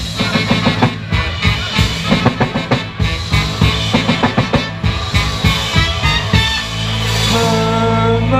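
Live rock band playing a song's instrumental opening: drum kit beating steadily over bass and guitar, the drum hits dropping out about six and a half seconds in as the band holds sustained chords.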